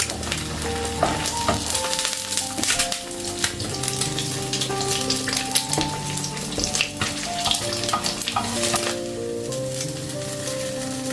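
Food sizzling and crackling in a frying pan, over soft background music with slow, held notes.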